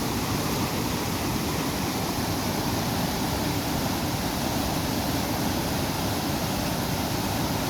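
Steady rush of a monsoon-swollen mountain river in flood, an even roar of fast-flowing water.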